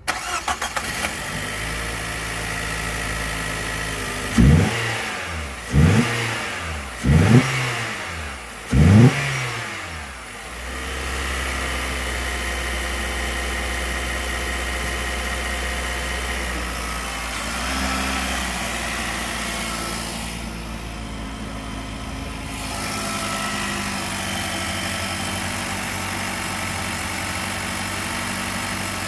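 2018 Nissan Qashqai engine starting and settling to idle. It is then revved four times in quick blips, each rising and falling in pitch, about a second and a half apart, before idling steadily again.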